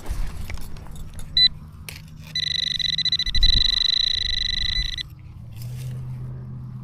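A metal detector sounding on a target in freshly dug soil: one short electronic beep, then about a second later a steady high tone lasting nearly three seconds. Scraping and knocks of digging in the dirt run underneath.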